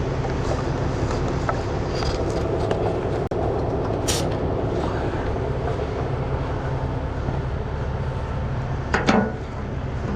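Heavy truck's diesel engine idling steadily, with a brief hiss about four seconds in and two knocks near the end.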